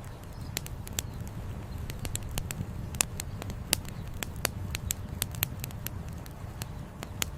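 Campfire wood burning with irregular sharp crackles and pops, several a second, over a steady low rumble.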